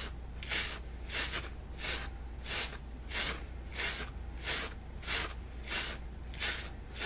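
Wire-toothed cat slicker brush raked in short, even strokes over the fuzzy fabric of a stuffed bear, about one scratchy swish every two-thirds of a second. The brush is lifting pills and fuzz from the fabric.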